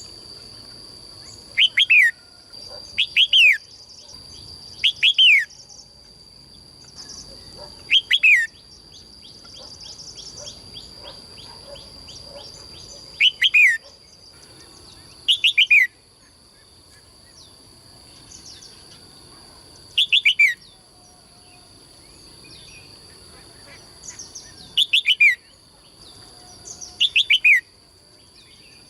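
A songbird calling repeatedly: sharp, loud notes that slide downward in pitch, mostly in quick pairs or triplets every few seconds, with one fast run of short notes about ten seconds in.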